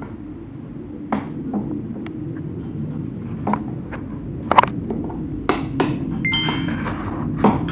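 Scattered knocks and clicks over a steady low hum, with a metallic ping ringing out about six seconds in.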